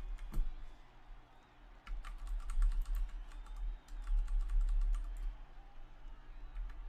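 A quick, irregular run of sharp clicks lasting about three and a half seconds, starting about two seconds in, over a low steady hum.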